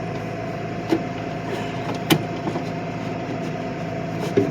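A steady hum from a running engine or motor, with a constant tone, under a few sharp clicks and knocks as the plastic air-intake snorkel of the chipper's air filter housing is pushed back into place: one about a second in, a louder one about two seconds in, and another near the end.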